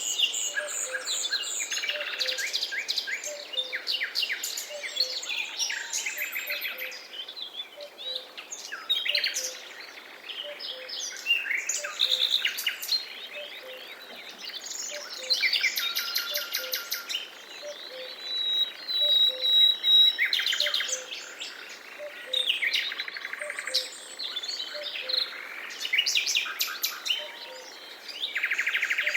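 Forest birdsong: several songbirds singing and calling over one another, with rapid trills, chirps and one long high whistled note about two-thirds of the way in. Underneath, a faint low note repeats about once a second.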